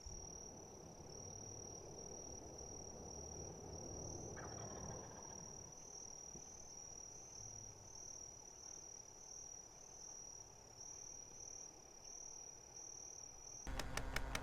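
Steady high-pitched insect trill whose pitch steps slightly up and down every half second or so, over faint low background noise. Near the end, a much louder rapid rattle of sharp beats cuts in suddenly.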